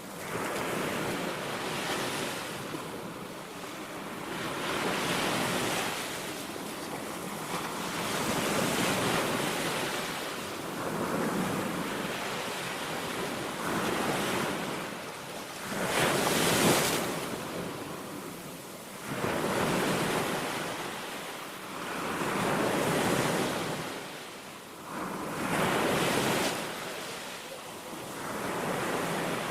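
Small sea waves breaking and washing on a beach, the surf swelling and ebbing every two to three seconds, with the loudest break about halfway through. Wind rumbles on the microphone.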